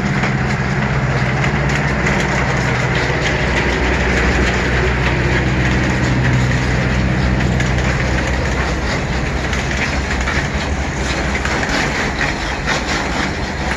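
A small ride-on railroad train passing close by. Its engine hums steadily and is strongest in the first half, then fades, while the wheels click over the rail joints toward the end.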